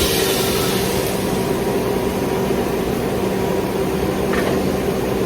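Steady electric fan or motor hum of a running kitchen appliance, holding one pitch, with a brief hiss fading out in the first second.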